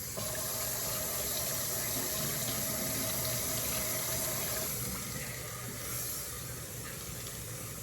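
Water running from a tap into a sink, a steady rush that eases slightly about five seconds in.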